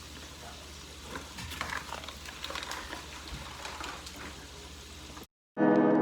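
Breaded shrimp frying in a pot of hot oil: a steady bubbling hiss with scattered crackles. It cuts off suddenly about five seconds in, and harp-like plucked music starts.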